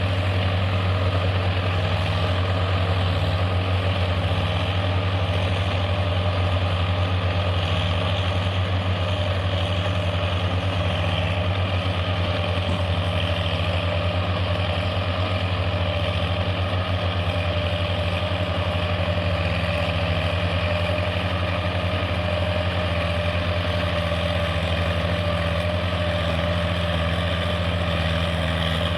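Tractor engine running steadily at constant speed, a deep even drone.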